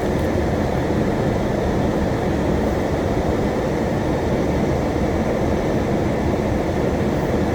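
Climate-control blower of a 1997 Mercedes-Benz SL600 running at high fan speed on maximum heat, air rushing steadily out of the defroster vents.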